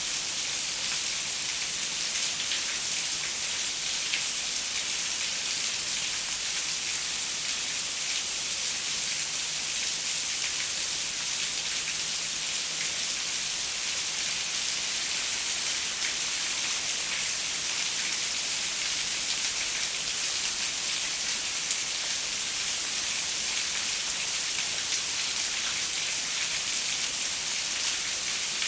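Steady rain pattering on a window, a constant hiss with many small drop ticks and no thunder.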